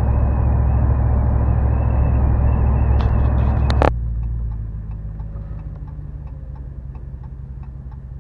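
Inside the cab of a Ram 1500 with a 5.7L HEMI V8, resonator deleted: a loud, steady, low exhaust drone and road noise at freeway cruise. About four seconds in this gives way suddenly, with a click, to a much quieter low idle while the turn signal ticks steadily, about three ticks a second.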